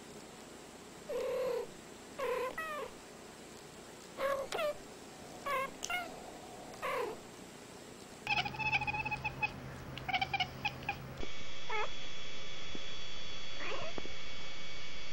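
Domestic cats meowing: two cats trade about eight short meows back and forth, then a run of rapid, choppy yowls over a low hum, then a couple of faint single meows over a steady background hum.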